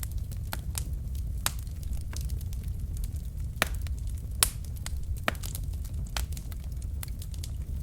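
Wood fire burning in a fireplace, logs crackling and popping irregularly over a steady low rumble of flame.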